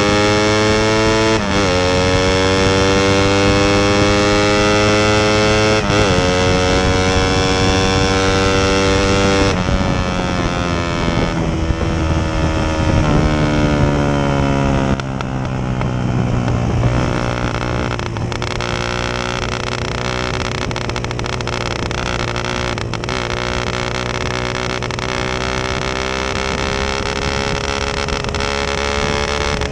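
Suzuki Satria FU 150's single-cylinder four-stroke engine through a gutted stock CKD silencer, revving hard under full throttle: its pitch climbs and drops back at each of three upshifts in the first ten seconds, then holds high and steady as the bike runs near top speed.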